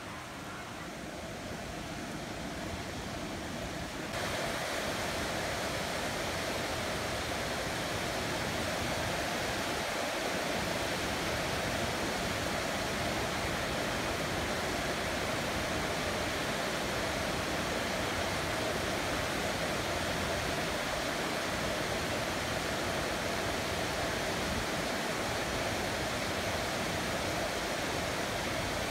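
Heavy rain falling steadily, a dense even hiss. It grows louder over the first few seconds and then steps up abruptly about four seconds in.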